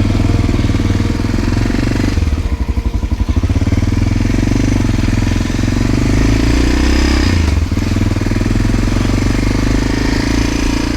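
1988 Honda NX650 Dominator's single-cylinder four-stroke engine running under way. The revs climb between about five and seven seconds in, then dip briefly just after.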